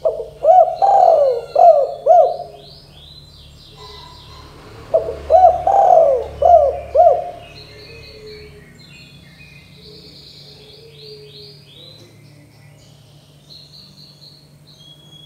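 Spotted dove (tekukur) cooing: two phrases of several low, arching notes, the second beginning about five seconds in. Faint high chirping of small birds runs underneath.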